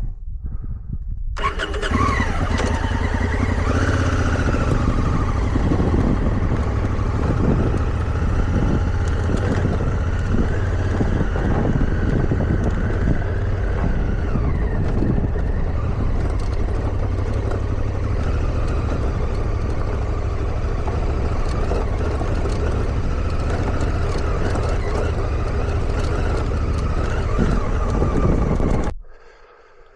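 Motorcycle engine running under way, its pitch slowly rising and falling with the throttle, with a heavy low rumble underneath. It starts about a second and a half in and cuts off shortly before the end.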